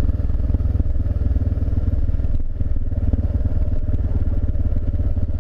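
Single-cylinder dual-sport motorcycle engine running steadily at low road speed, with a brief dip in the engine note about two and a half seconds in.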